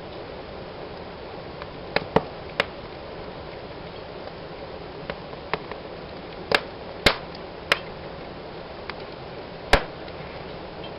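Wood fire in a fireplace crackling: a steady low hiss of flames broken by sharp pops, with a cluster of louder cracks around two seconds in, several more in the middle, and the loudest one near the end.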